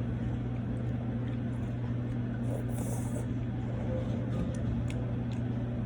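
Restaurant room noise: a steady low hum with faint background chatter, and a few light clicks of utensils against dishes.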